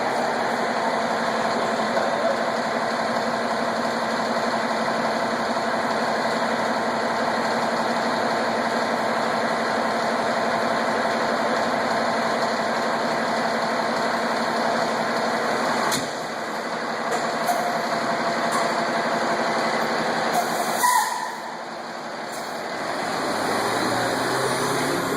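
Fire engine's engine running steadily with a constant drone. It drops in level after a click about three-quarters of the way through, then builds back up.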